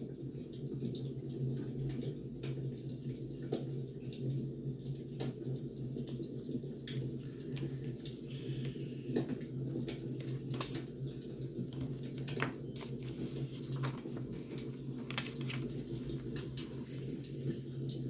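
Wood fire burning, with irregular crackles and snaps over a steady low rumble.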